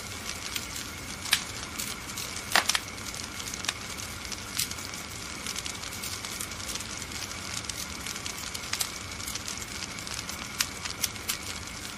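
Wood fire crackling in a fireplace: a steady hiss with frequent sharp crackles and a few louder pops.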